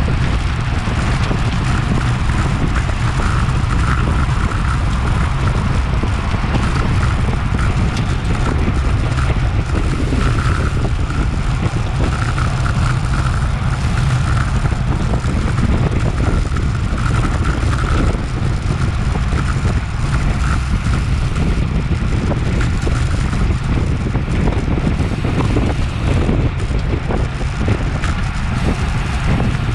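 Wind rushing over a bike-mounted action camera's microphone at road-race speed: a loud, steady low rumble that does not let up, with road and tyre noise underneath.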